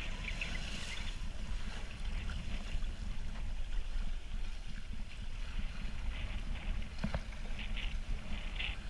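Engineless 36-foot Cape Dory sailboat under sail, with water rushing and splashing along the hull and wind buffeting the microphone. There is a single short knock about seven seconds in.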